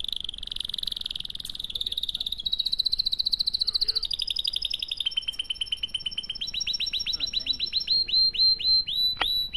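A bird calling: a fast high trill that steps up and down in pitch, then, from about six seconds in, a run of short separate chirps, about three a second.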